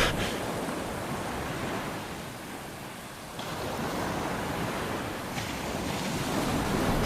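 Sea waves washing in: an even rushing noise that dips around the middle and swells again near the end.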